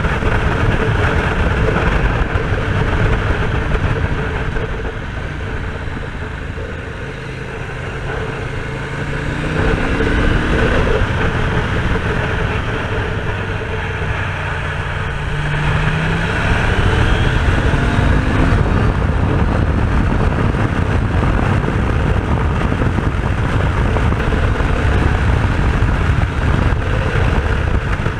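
Aprilia RS250 two-stroke engine under way, easing off and then rising in pitch twice as it accelerates, under heavy wind rush on the microphone.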